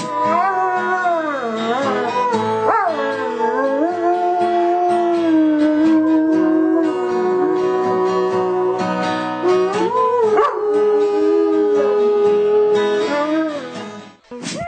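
A dog howling along to music, long howls that glide up and down in pitch over held musical notes. Both stop just before the end.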